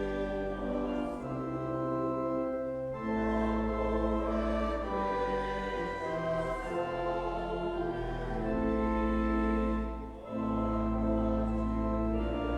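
Church organ playing a hymn in held chords over a steady bass line, with short breaks between phrases about three seconds in and about ten seconds in.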